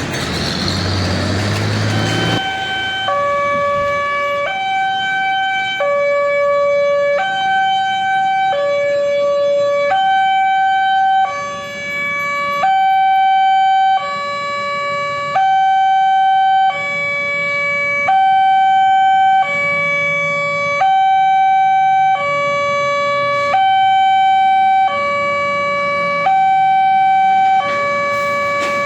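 Level crossing warning alarm sounding a two-tone electronic signal, a lower and a higher note alternating about every second and a half, which warns that a train is coming or passing. For the first two seconds or so a loud rumbling noise covers it, then it cuts away and the alarm carries on alone.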